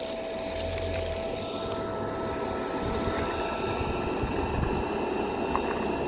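Miele Complete C2 Tango EcoLine canister vacuum running steadily, its motor whine with a few faint clicks of debris being picked up.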